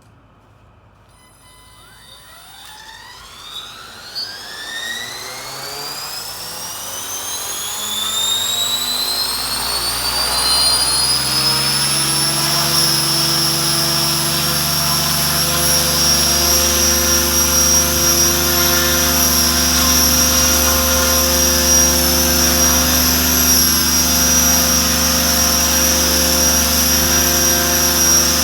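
Mikado Logo 600 electric RC helicopter spooling up: the motor and gear whine rises steadily in pitch from a standstill for about twelve seconds, then holds at a steady headspeed, a loud, even high whine with the rotor running.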